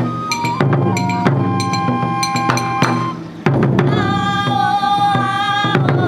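Wadaiko (Japanese taiko) ensemble performing: sharp drum strikes under a held, stepping melody. A little after three seconds in the sound dips briefly, then a long sustained melodic note comes in over the drums.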